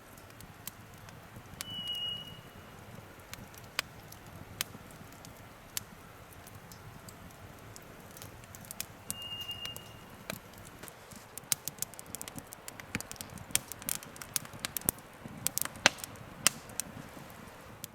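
Campfire crackling with sharp pops and snaps from the burning wood, sparse at first and much busier in the second half. Twice a short high-pitched tone sounds briefly over it.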